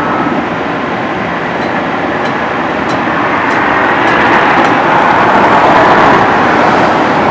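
Steady rumble and rush of a moving train, swelling a little partway through, with faint clicks at an even pace.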